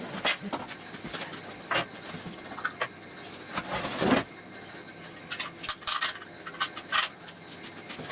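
Scattered clicks and light knocks from hand work on an old metal tank being taken apart, with a short, louder scraping rustle about four seconds in.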